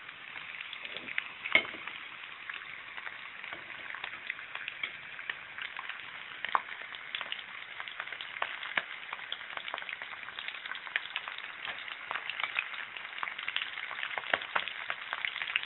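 Chopped garlic and chilli sizzling in hot oil in a non-stick wok, with steady small crackling pops throughout and one sharp knock about one and a half seconds in.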